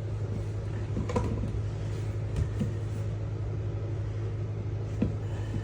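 A steady low hum, with a few faint knocks and clicks.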